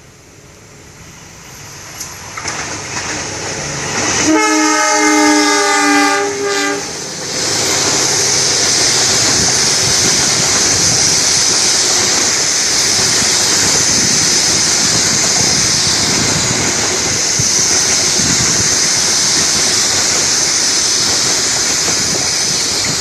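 Diesel-electric locomotive hauling a passenger train comes closer, then sounds its multi-tone horn about four seconds in, for about three seconds with a brief break. The coaches then pass close by: a loud, steady rumble and rush of wheels on the rails with a high hiss over it.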